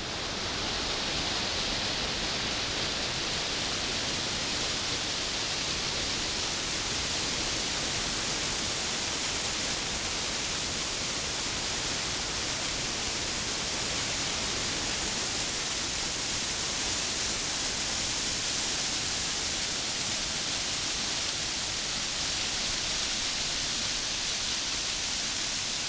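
Waterfall rushing, a steady even roar of falling water that holds at one level.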